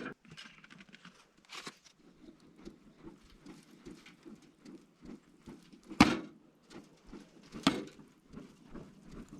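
Freshly rekindled wood campfire crackling with many small irregular snaps, and two loud sharp pops about six and seven and a half seconds in.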